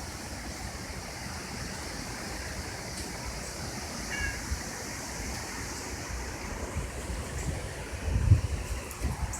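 Steady wind ahead of an approaching thunderstorm, with gusts buffeting the microphone near the end.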